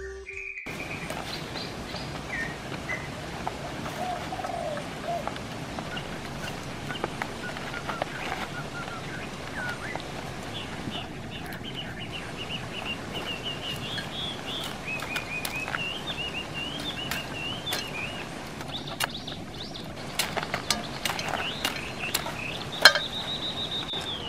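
Birds chirping and calling repeatedly over a steady outdoor background, with a few sharp clicks near the end.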